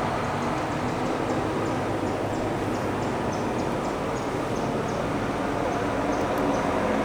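Steady outdoor background rumble, with faint high chirps repeating about three times a second that stop about five seconds in and return briefly near the end.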